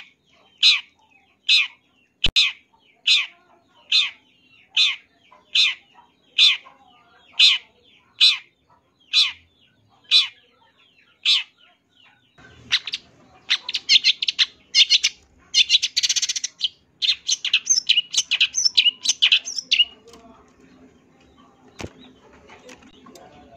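Long-tailed shrike (cendet) calling: a run of about fourteen harsh, downward-sweeping notes, roughly one every 0.8 s, then about seven seconds of rapid, dense chattering song that stops about 20 seconds in.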